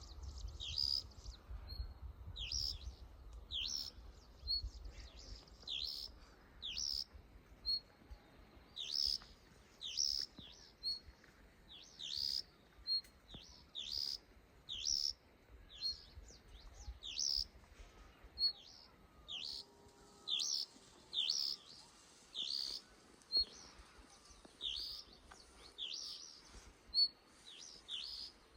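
Songbird chirping: short, sharp, high chirps repeated about once or twice a second, with small high notes in between. A faint low rumble sits under the first two thirds or so.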